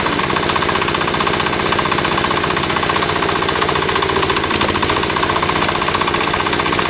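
A machine's engine running steadily with a fast, even knocking beat.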